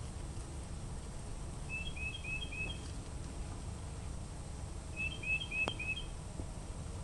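A bird calling twice, each call a quick run of four short chirps, over steady low background rumble, with one sharp click during the second call.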